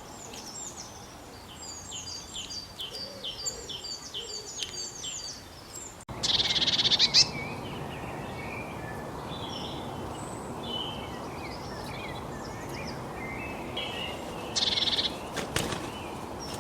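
Small birds calling: a quick series of evenly repeated high, falling notes, then an abrupt change to a loud, harsh chattering burst and scattered high chirps over a steady background hiss, with a second harsh burst near the end.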